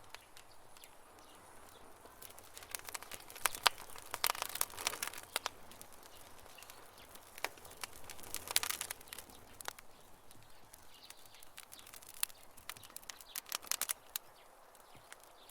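Campfire burning, its wood crackling and popping in sharp snaps that come in bursts, with quieter stretches between.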